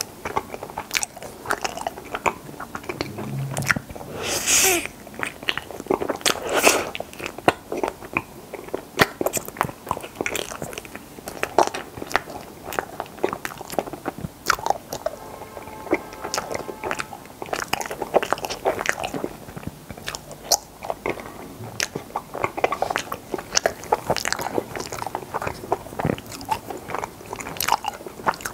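Close-miked eating of strawberry Chaltteok Ice, frozen ice cream in a rice-cake (mochi) coating: biting and chewing with many short sharp clicks and wet mouth sounds. There are two longer noisy sounds about four and a half and six and a half seconds in.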